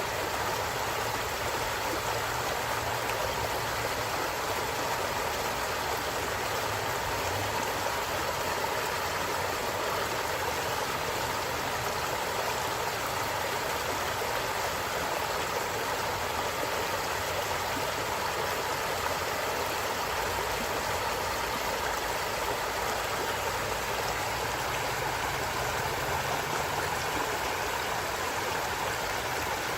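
Forest stream flowing steadily, a constant rush and gurgle of running water.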